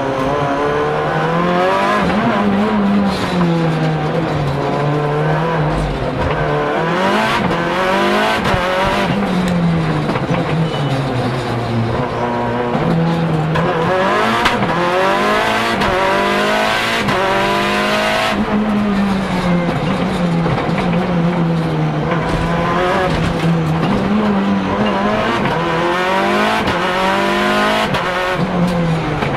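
Inside the cabin of a Lancia Delta HF Integrale EVO Proto, its turbocharged 2.0-litre four-cylinder engine (more than 500 hp) is driven hard. Its pitch climbs and drops again and again as the sequential gearbox is shifted up and down.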